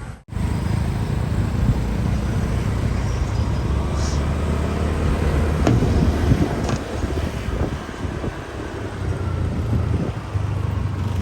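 Road noise from riding a motor scooter through town traffic: a steady heavy low rumble with passing traffic. It cuts out for a moment right at the start.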